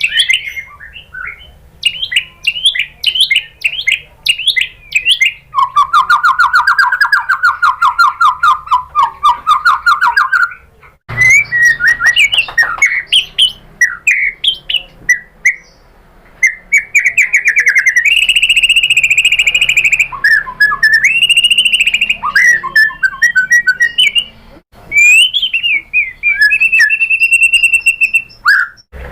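White-rumped shama (murai batu) song: a loud, varied run of rapid chirps, whistled notes and rattling trills, including a long buzzy trill about six seconds in, with abrupt breaks between sections.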